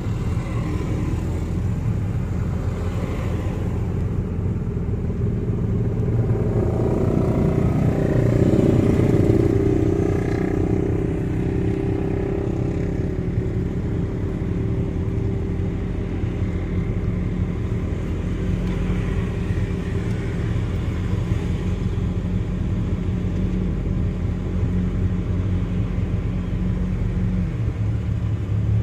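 1993 Toyota Starlet EP81 engine idling, heard from inside the cabin as a steady low hum with street traffic around. A passing vehicle swells up and fades away about eight seconds in.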